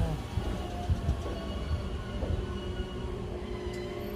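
Odoriko limited express electric train rolling slowly along the platform, a low rumble of wheels with a couple of knocks in the first second, and a steady hum that comes in about two seconds in.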